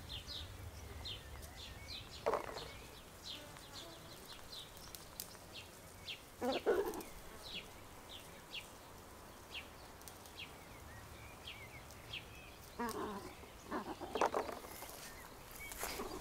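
Small birds calling with many short, high, downward chirps, over a low background. A few louder brief sounds come about two, seven and fourteen seconds in.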